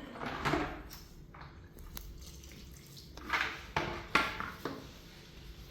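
Short clattering knocks: one about half a second in, then four in quick succession between about three and five seconds, like hard household items being handled.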